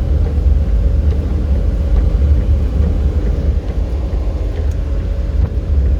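Steady low rumble of a vehicle driving along the road, with a faint constant hum on top.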